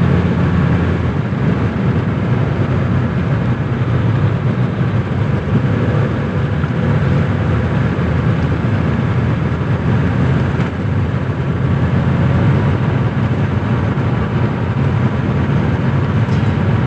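A 1985 Mercedes-Benz 300D turbo diesel's five-cylinder diesel engine running steadily while the car cruises, with road noise, heard from inside the cabin.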